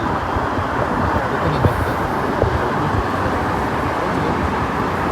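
Steady road and engine noise of a moving car heard from inside the cabin, with faint voices under it.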